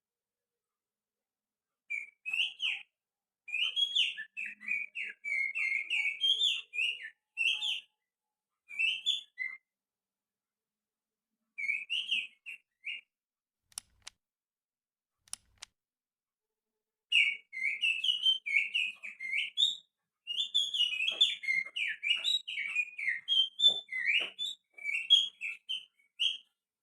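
A man whistling through his fingers in imitation of a white-rumped shama's song: rapid, varied phrases of high whistled notes that jump and slide in pitch. The phrases come in several bursts separated by short pauses.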